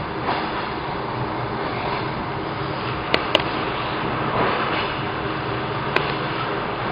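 Steady running noise of an electric commuter train heard from inside the carriage while it is moving, with two short sharp clicks about three seconds in and another near the end.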